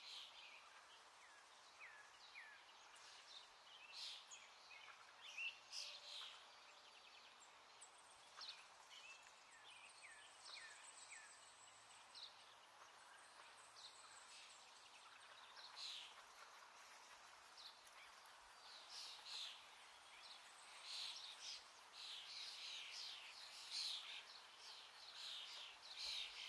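Faint birds chirping and calling in short notes over a low, steady hiss of outdoor ambience, the calls getting busier toward the end.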